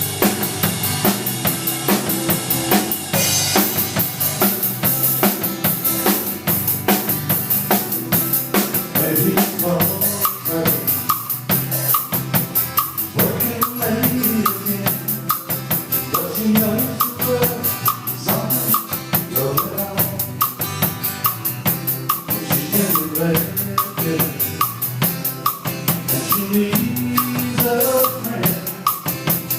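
Music led by a drum kit playing a steady, busy beat, with pitched instruments moving over it.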